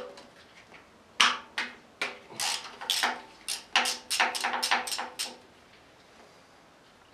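Steel hand tools clanking against metal: about a dozen sharp, irregular clanks, each with a short ring, bunched between about one and five seconds in.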